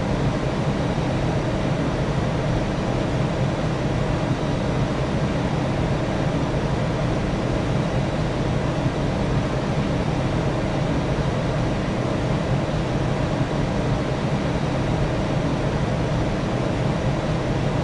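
Steady drone of an aircraft in flight, even and unchanging, with a low hum beneath.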